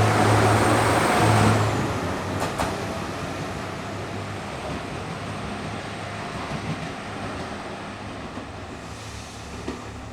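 Engines of a JR Shikoku 2700 series diesel express train, loud under hard acceleration, then dropping off sharply about a second and a half in and fading steadily as the train draws away.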